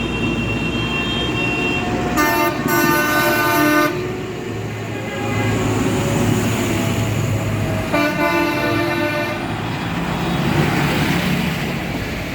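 A vehicle horn sounds twice, each a steady-pitched blast of about a second and a half to two seconds, the second about four seconds after the first ends. Under them runs the steady low rumble of tractor engines.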